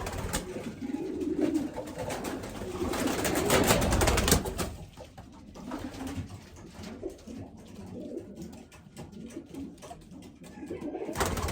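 Racing pigeons cooing low, with a louder rustling burst about three to four seconds in and scattered light clicks and taps.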